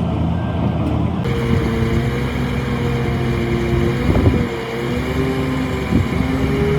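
Diesel engine of heavy earthmoving machinery running steadily, its pitch wavering slightly under changing load, with a couple of brief clanks midway and near the end.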